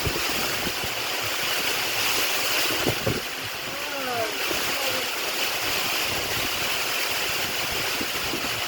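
Storm wind and heavy rain: a loud, steady rushing hiss.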